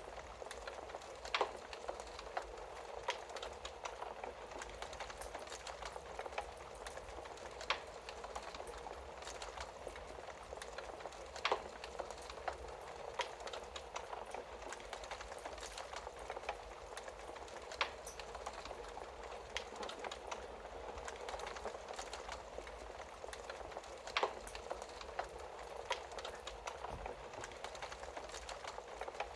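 Wood fire burning in a fireplace: a steady hiss of small crackles, with a sharper, louder pop every few seconds.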